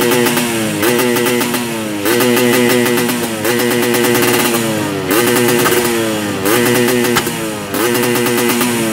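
Yamaha RX-King two-stroke single-cylinder engine revved repeatedly through an aftermarket 3v3 under-frame muffler: a throttle blip about once a second, the pitch jumping up and then falling back each time.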